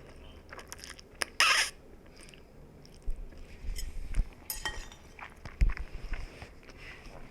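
Someone eating noodles: scattered clicks and clinks of utensils with chewing, and one short louder noisy burst about a second and a half in.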